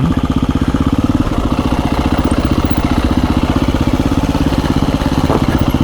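2017 KTM 350 EXC-F's single-cylinder four-stroke engine idling steadily with an even, rapid pulse.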